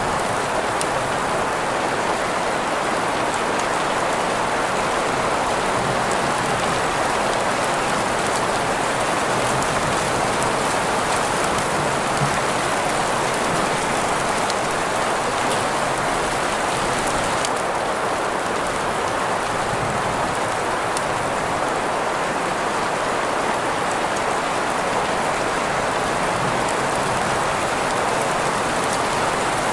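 Steady green noise, a hiss centred in the middle range, blended with rainfall and faint drop ticks in the treble. The treble shifts slightly a little past halfway.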